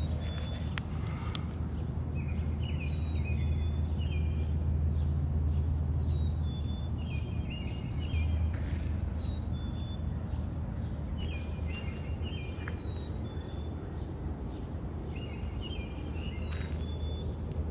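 A songbird sings the same short phrase over and over, about once every four seconds, over a steady low rumble.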